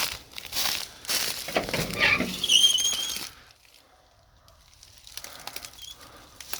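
Footsteps crunching irregularly over dry debris and brush for about three seconds, with a brief high squeak partway through, then a quieter stretch with only faint crackles.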